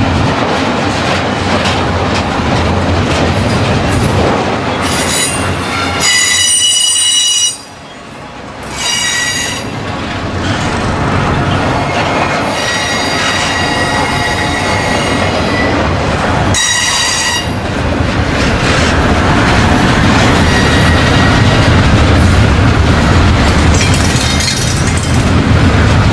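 Double-stack intermodal freight cars rolling past close by: steady rumble of steel wheels on rail, with several spells of high-pitched wheel squeal.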